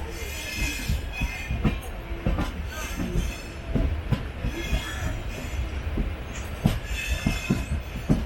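Wheels of an LHB passenger coach running on the rails, heard from on board: a steady low rumble with irregular knocks and clanks. The wheels squeal several times over.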